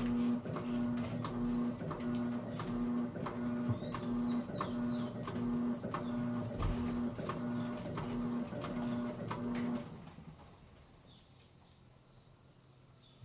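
Electrolux Essential Care washing machine running its wash cycle, its motor humming in short regular pulses about three times every two seconds as it works the drum, with light ticks. The pulsing stops about ten seconds in. A few bird chirps come in the middle.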